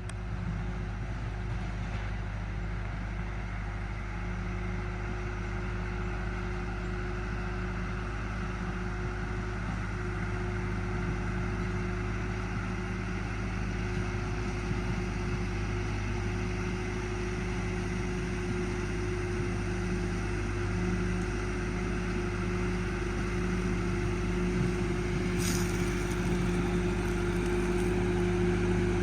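Allis-Chalmers tractor engine running steadily while pulling a box blade, growing slowly louder toward the end.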